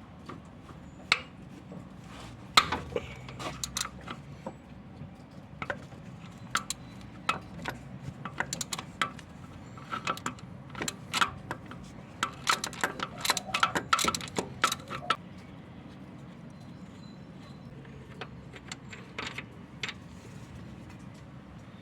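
Metal tools and parts clinking and tapping irregularly, as in hands-on work on an engine, with a dense run of clinks between about ten and fifteen seconds in.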